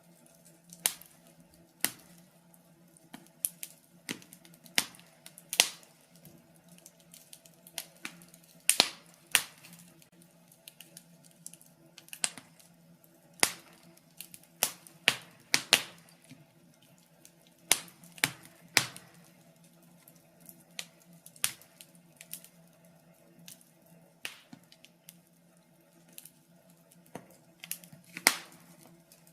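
Wood fire in a fireplace crackling, with irregular sharp pops and snaps, some far louder than others, over a faint steady low hum.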